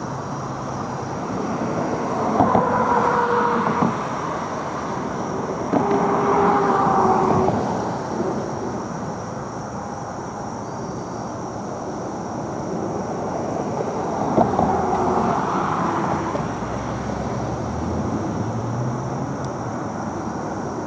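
Road traffic: a steady rush of vehicles, with three passing vehicles swelling louder, about two seconds in, about six seconds in and again about fifteen seconds in.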